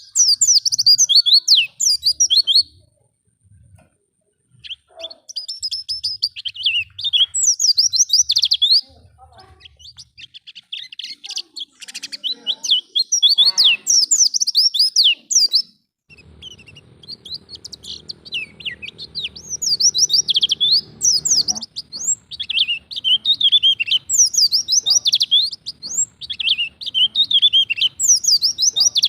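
White-eye (pleci) song: rapid twittering phrases of high, quickly sliding notes, coming in bursts of a few seconds with short pauses between them.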